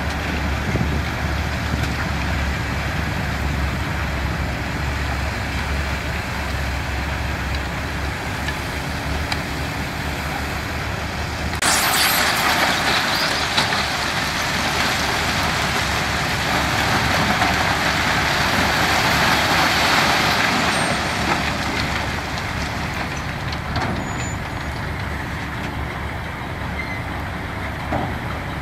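Diesel construction machinery running with a steady low engine drone; about twelve seconds in a loud rushing noise starts suddenly, lasts several seconds and fades.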